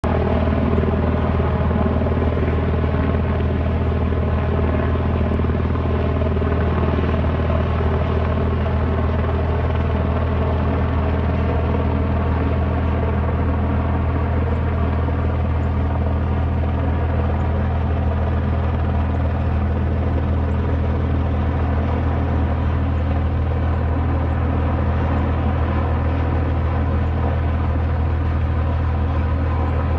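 Helicopter running steadily close by, its rotor and engine making a constant, unbroken drone.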